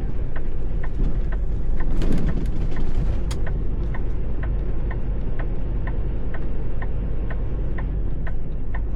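Inside a semi-truck's cab: the diesel engine runs with a steady low rumble while the turn signal clicks evenly, about two and a half clicks a second. A brief rush of noise comes about two seconds in.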